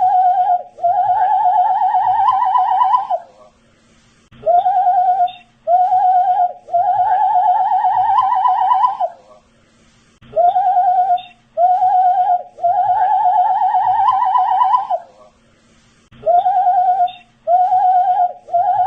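A man whistling the same phrase over and over: two short notes, then a long wavering note that climbs slightly before cutting off. The phrase loops about every six seconds, three times in a row.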